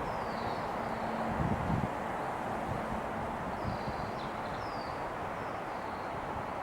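Faint, thin, high bird calls, short downward-slurred notes given every second or so, over a steady background hiss and a low hum.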